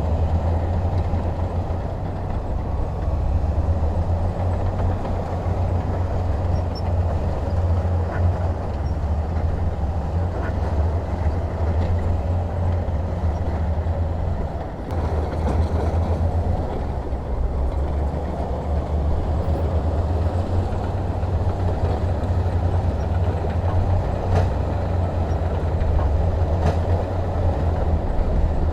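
Heavy diesel machinery running steadily with a deep, continuous rumble and a few faint clicks.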